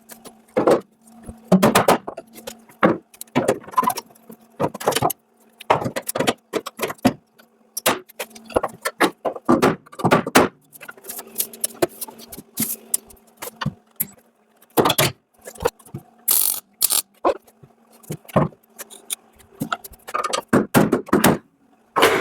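MIG welder tack- and stitch-welding a steel repair section into a car bulkhead in short crackling bursts, stopping and starting irregularly, with a faint steady hum underneath.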